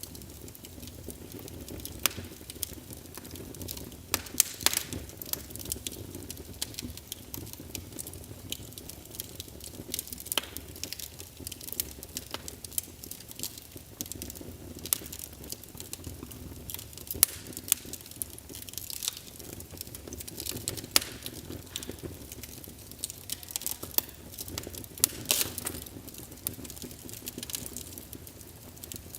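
Wood fire crackling in a fireplace: a steady low rustle of flames with irregular sharp pops and snaps, a few of them louder.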